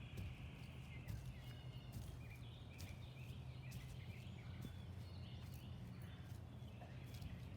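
Small birds chirping and twittering over a low, steady background rumble.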